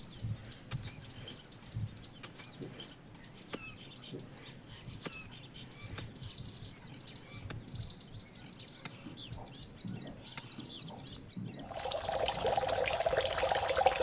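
Birds chirping with short, high, repeated calls and scattered faint clicks. About twelve seconds in, a rush of running water starts and grows louder.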